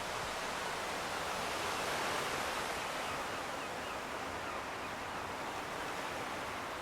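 Steady wash of distant sea surf, swelling slightly about two seconds in.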